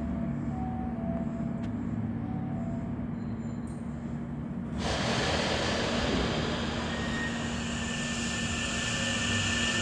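Hankyu 9000 series electric train starting to pull away. A steady low hum as it stands gives way, about five seconds in, to louder rolling noise, with the high whine of the traction inverter and motors rising slowly as it gathers speed.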